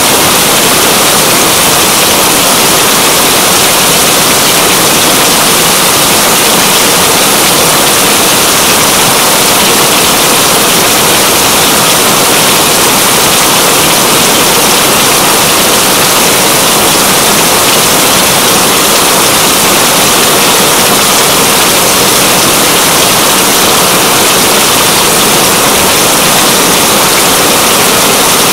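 Heavy, steady rain: a dense, even hiss that does not change.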